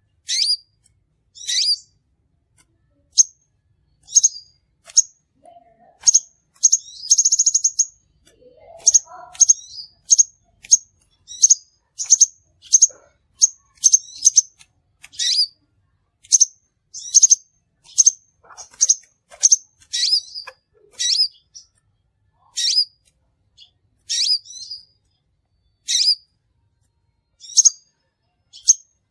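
Crimson sunbird (sepah raja) calling: short, sharp, high-pitched chirps repeated at irregular intervals, about one or two a second, with a brief buzzy trill about seven seconds in.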